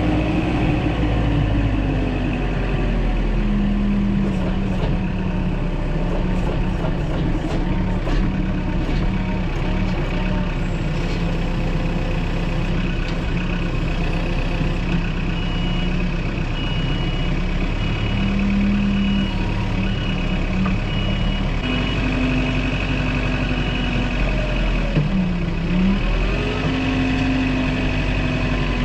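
Engine of a grapple-equipped machine running and working, its revs rising and falling, with a series of high repeated beeps through the middle.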